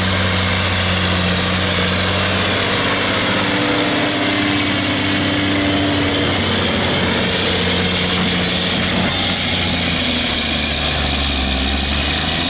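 Semi truck's diesel engine running hard and steady under load while pulling the sled, with a thin high whine over the low engine note.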